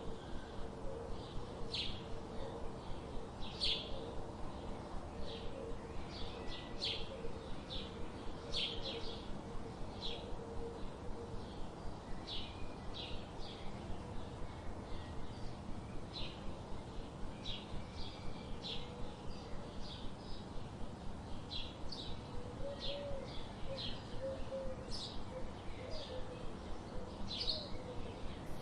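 A bird calling with short, sharp high chirps, repeated about once or twice a second, over a steady background hiss.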